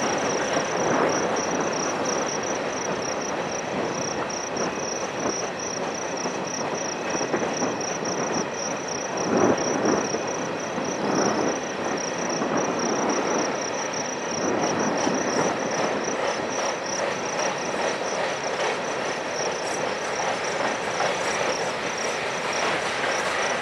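Freight train's hopper and covered hopper cars rolling past: a steady rumble and rattle of steel wheels on the rails, swelling louder a few times, around nine to eleven seconds in.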